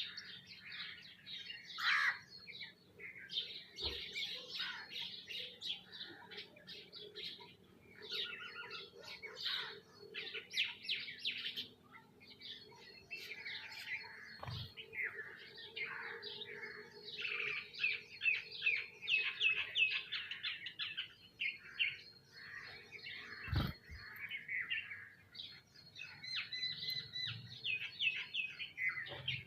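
A flock of feeding birds, sparrows and mynas, chirping and chattering continuously in many overlapping calls, with a few faint knocks among them.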